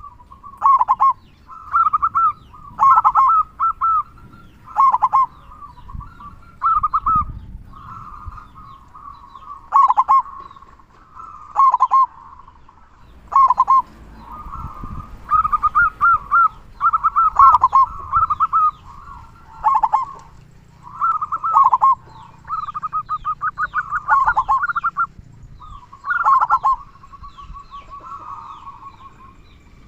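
Male zebra dove (local perkutut) cooing its song in short, rolling phrases repeated every second or two, with a big, deep 'kung' voice. Faint chirps of other small birds come in near the end.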